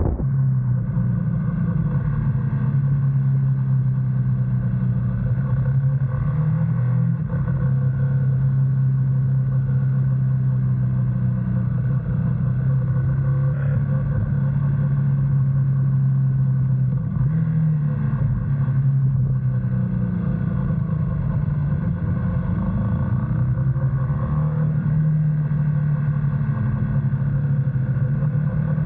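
GS motorcycle engine running steadily under way, its pitch shifting up and down a few times with gear and throttle changes.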